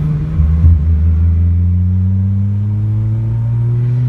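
Toyota 1JZ straight-six in a BMW E36 Touring, running through a 3-inch straight pipe and heard onboard. The revs dip briefly just after the start, then climb slowly and steadily.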